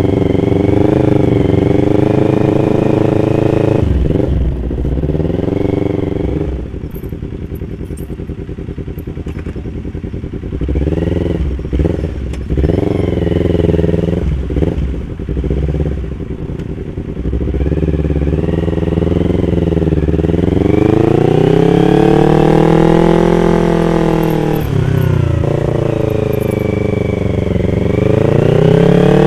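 Yamaha R25's parallel-twin engine on the move, its pitch rising and falling as it accelerates and eases off. It goes quieter and lower for about ten seconds after the first quarter, then climbs in revs in long sweeps through the last third.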